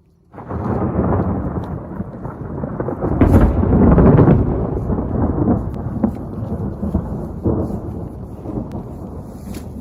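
A thunderclap that breaks in suddenly just after the start, then rolls and swells to its loudest around three to four seconds in before slowly rumbling away, with a few sharp ticks over it.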